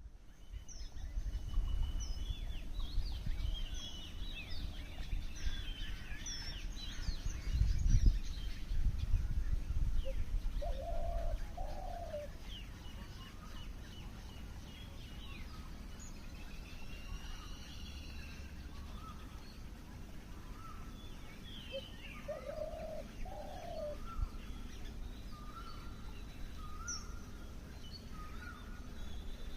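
Small birds chirping and twittering outdoors, busiest in the first half, with a low coo heard twice, about a third and about three quarters of the way in, likely a dove. A low rumble runs under the first half, loudest about eight seconds in.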